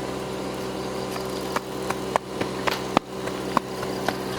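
An engine running steadily, with about six sharp clicks and knocks in the middle.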